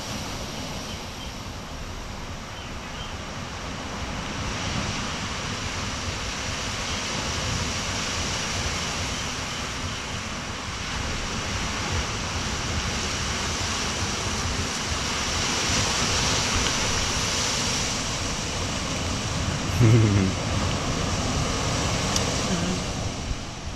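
Ocean surf washing on a beach with wind on the microphone, a steady rush that swells slowly to its loudest about two thirds of the way through. A brief low pitched sound stands out near the end.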